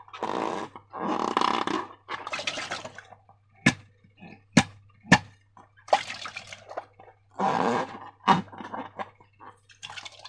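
Slime squelching and squishing in irregular wet bursts, with a few sharp wet pops in the middle of the stretch.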